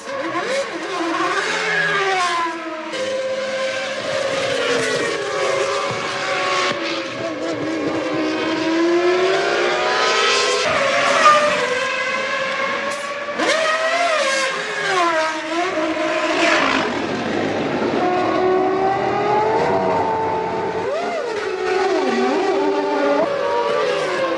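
1997 Formula One cars' engines at racing speed, their high-pitched note climbing and dropping again and again through gear changes as several cars go by one after another.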